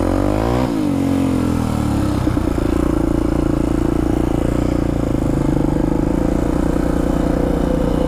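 Polaris Predator quad's single-cylinder four-stroke engine, jetted with a stage 3 kit. It revs up and drops back within the first second, then runs steadily at cruising speed.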